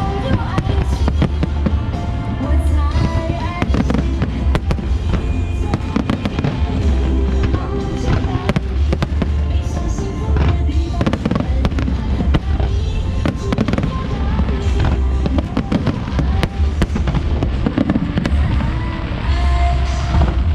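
Fireworks display: a dense, continuous series of bangs and crackling bursts, with loud music playing at the same time.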